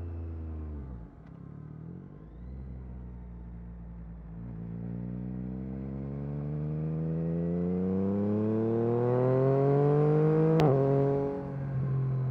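Yamaha MT-09 SP's three-cylinder engine through an Akrapovic carbon exhaust. The engine note dips briefly about a second in, then rises steadily in one long pull under acceleration for several seconds. Near the end comes a sharp crack, and the pitch drops to a lower steady note.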